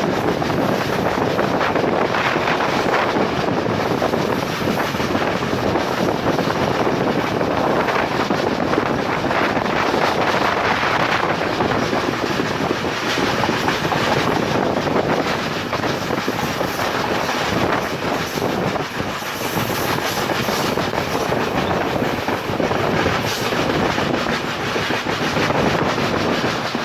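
Passenger train running at speed, its wheels going over the rails in a loud, steady, continuous noise.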